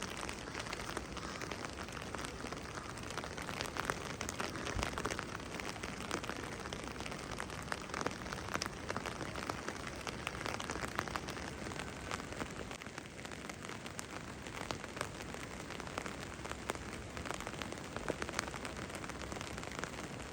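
Light rain falling steadily, with many small, irregular drop ticks.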